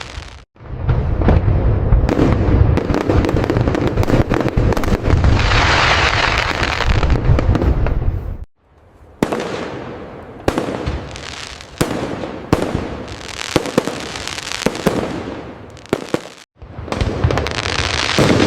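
Fireworks display: a dense barrage of bangs and crackling over a heavy low rumble, cutting out abruptly about eight seconds in. It is followed by separate sharp bursts with crackle, which cut out again briefly near the end before another dense volley.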